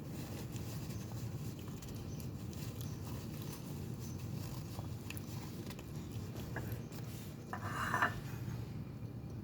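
Someone eating a meal: soft chewing and small clicks of cutlery on a dish over a steady low hum, with one brief louder scrape about eight seconds in.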